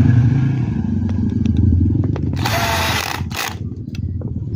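A power screwdriver running in a short burst about two and a half seconds in, then briefly again, while screws are moved from one fan motor housing to another, over a steady low rumble.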